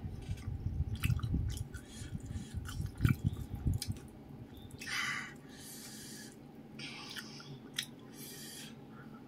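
Close-miked chewing of a mouthful of rice and crispy fried fish, with wet clicks, for about four seconds. After that it quietens to a few soft rustles as fingers gather rice and sambal from the plate.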